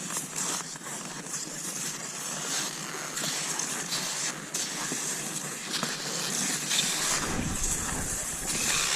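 Cross-country skis swishing and scraping over snow in repeated strokes, with a low rumble rising briefly near the end.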